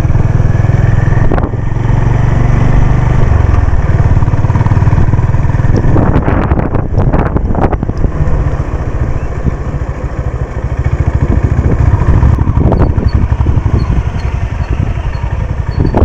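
Honda CB350 RS's air-cooled single-cylinder engine running as the motorcycle rides along, a steady low engine beat that dips briefly in loudness a couple of times.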